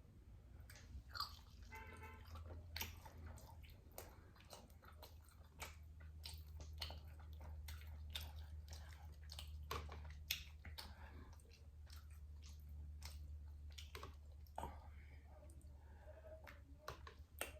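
A person chewing and smacking on sauced pork spare ribs: many soft, wet mouth clicks, faint and close, over a low steady hum.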